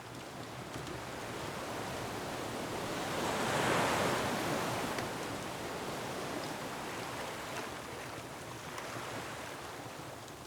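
Ocean surf: one wave swells to a peak about four seconds in and slowly ebbs away. Faint crackles from a wood fire run underneath.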